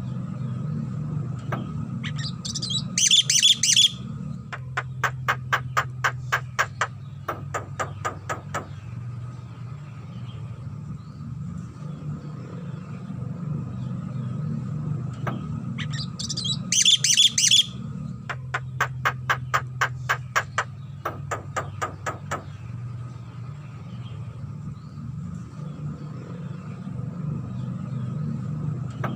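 Javan myna calling: a short harsh squawking phrase followed by a long run of rapid clicking notes, a pattern heard twice. A steady low hum runs underneath.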